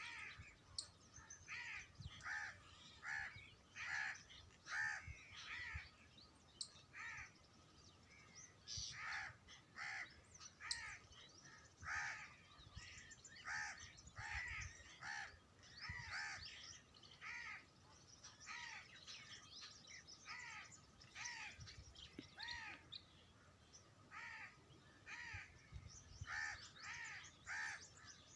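Birds calling over and over, short repeated calls coming about one to two a second and sometimes overlapping, as from several birds at once.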